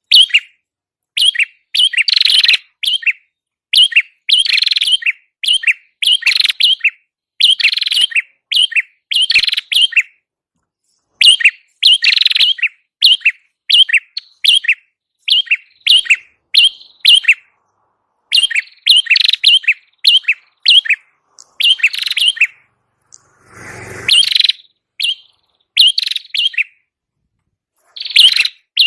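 Prenjak kepala merah (red-headed prenjak) singing in full voice (gacor): rapid runs of sharp, high chirps in repeated bursts with short pauses between them. This is the lure song used to call the bird in. A brief, duller rustle-like sound comes about 24 seconds in.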